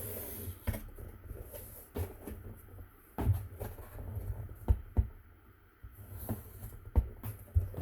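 Light taps, knocks and low thumps of a cardboard cracker box and paper being handled and shifted on a table while its outline is traced, some sharp clicks spaced irregularly through it.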